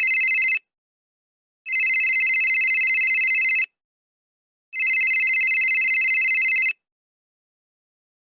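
Telephone ringing with an electronic warbling trill. Each ring lasts about two seconds with about a second between them: the tail of one ring, then two more.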